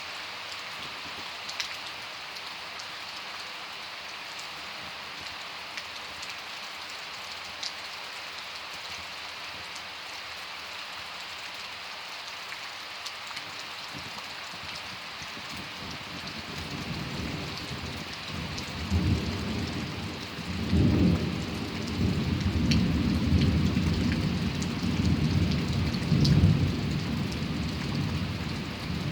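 Steady rain falling with a few sharper drop sounds. About halfway through, a long roll of thunder builds up and rumbles, swelling several times, then eases slightly near the end.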